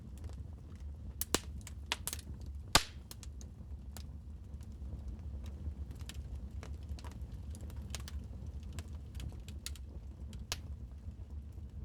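Wood fire crackling in a fireplace: scattered snaps and pops over a steady low rumble of flame, with two loud pops about a second and three seconds in and another near the end.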